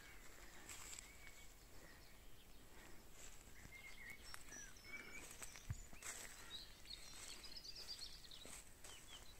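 Near silence in the open air with faint, scattered birdsong: short distant chirps here and there, and a brief warbling phrase about three quarters of the way through.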